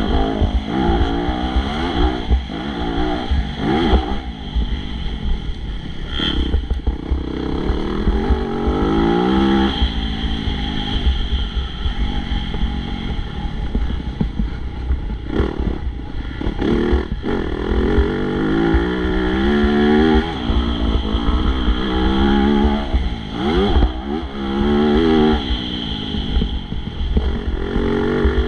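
MX2 motocross bike engine revving hard over and over, its pitch climbing on each acceleration and dropping as the throttle is shut or a gear is changed.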